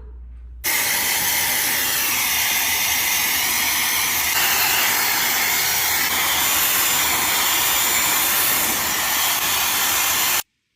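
A loud, steady hissing rush of noise that switches on suddenly about half a second in and cuts off abruptly near the end.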